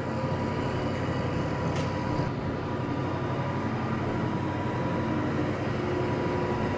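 Steady mechanical hum with faint high whining tones, and a single faint click about two seconds in.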